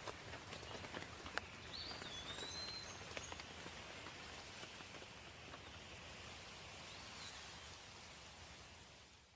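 Faint outdoor ambience of light dripping water with scattered drip clicks, one sharper about a second and a half in, and a bird chirping a few times around two seconds in. It fades out near the end.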